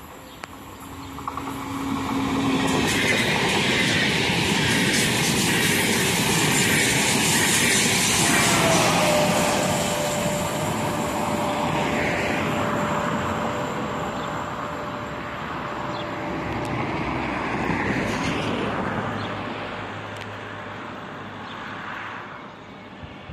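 Electric regional passenger train passing on curved track: wheel and rail noise swells up over a couple of seconds, stays loud for several seconds, then slowly fades as the train draws away. A steady whine comes in about eight seconds in and carries on as it fades.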